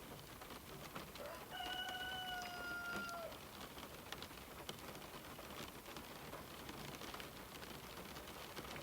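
Steady rain pattering with scattered drips. About a second in, a rooster crows once: a single held call of about two seconds that dips in pitch as it ends.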